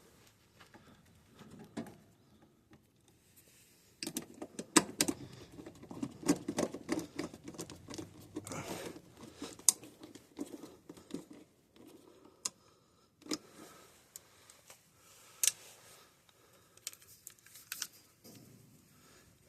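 Hand work on the breaker and its wiring inside the air handler cabinet: irregular clicks, taps and rustling, busiest in the first half, with a few sharper single clicks later.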